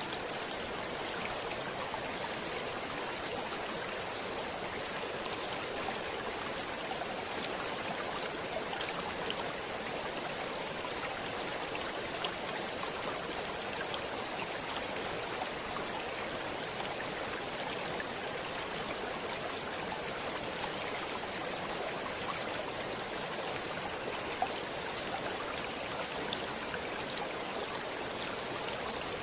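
Stream water running steadily, an even rushing with small splashes and drips scattered through it.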